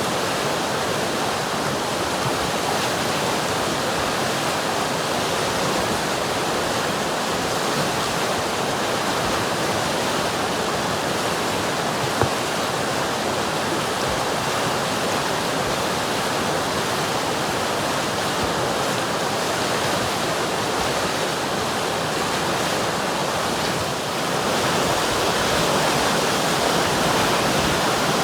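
River water flowing: a steady, even rush of water. A single brief tick comes about halfway through, and the rush grows a little louder near the end.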